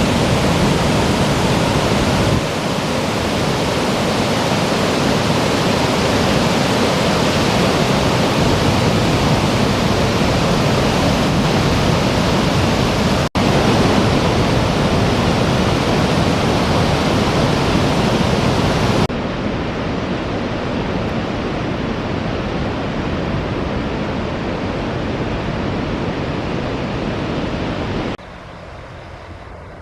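Steady, loud rushing noise of flowing river water, changing abruptly in level at several edits and quieter near the end.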